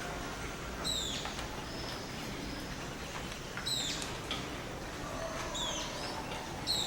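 Birds of a tropical rainforest dawn chorus calling: one gives a sharp, short, high falling call about every three seconds, with other whistles in between, over a steady background hiss.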